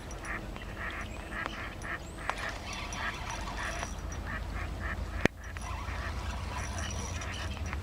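Waterfowl calling over and over in short honking notes, several a second. A single sharp click about five seconds in.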